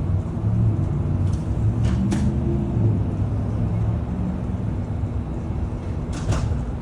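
Steady low rumble of vehicle noise, with two short clicks, about two seconds in and near the end.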